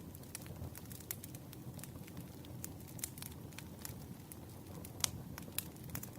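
Campfire crackling: a steady low rumble of burning wood with irregular sharp pops and snaps, the loudest pop about five seconds in.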